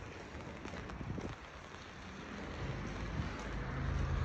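Steady rain falling on a wet street. About three seconds in, a vehicle's low engine hum comes in and grows louder.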